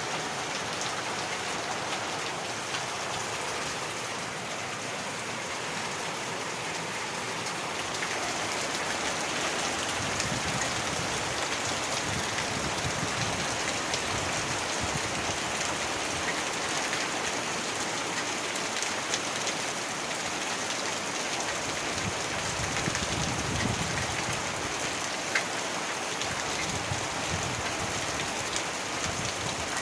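Heavy rain falling steadily: a dense, even hiss with scattered drop clicks, growing slightly louder about eight seconds in.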